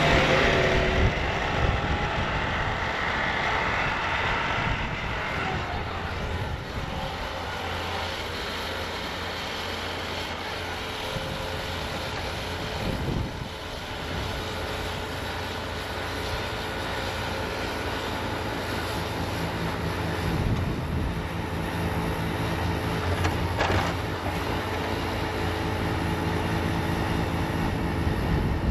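Bobcat T66 compact track loader's 75-horsepower diesel engine running steadily with its snowblower attachment working, a continuous steady drone.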